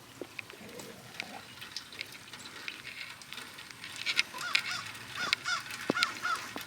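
Bird calls: a string of short, repeated calls starting about four seconds in, over scattered small clicks and rustling.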